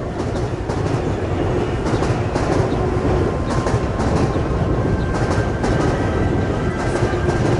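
Loud, steady rumbling noise with frequent small clatters and a faint steady whine.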